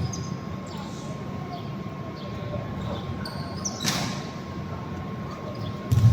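Gym game ambience: short high sneaker squeaks on the court and one sharp knock about four seconds in, over a steady hall noise. Ball dribbling thumps start again at the very end.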